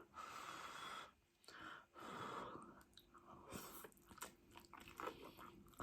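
Faint chewing and mouth sounds of a person eating spicy noodles and chicken, with two soft breathy puffs in the first couple of seconds and a few small wet clicks later.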